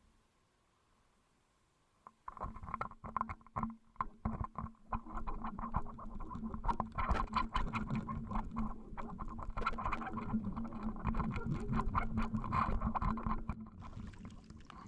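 Underwater camera picking up a dense, irregular patter of knocks and rattles over a steady low hum, starting suddenly about two seconds in and fading near the end.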